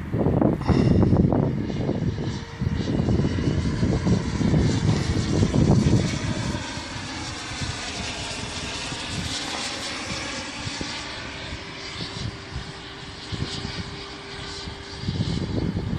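90mm multi-blade electric ducted fan of a model BD-5J jet, a high whine that swells and fades as the plane flies past. Wind gusts buffet the microphone through the first few seconds and again near the end.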